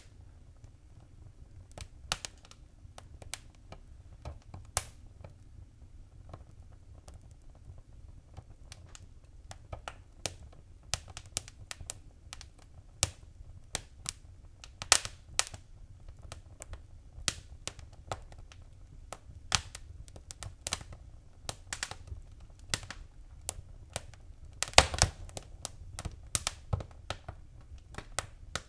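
Wood fire in a fireplace crackling: irregular sharp pops and snaps over a faint low rumble of flames, sparse at first and more frequent after about ten seconds, with the loudest pops near the end.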